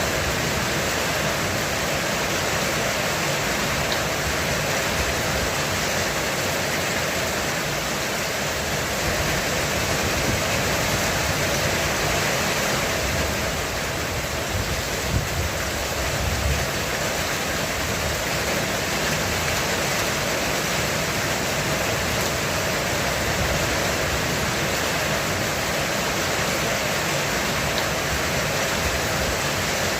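Heavy rain drumming steadily on a roof, an even wash of noise. A low thunder rumble swells briefly about halfway through.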